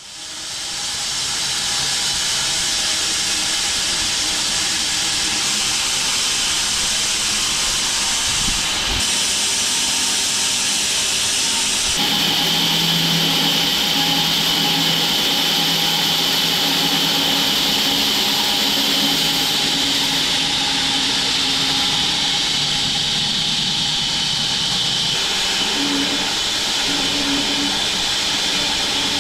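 Home-built wide bandsaw mill running and sawing through an acacia log: a steady loud hiss of the blade in the cut, with a low hum that shifts in pitch partway through. It comes up to full level within the first second.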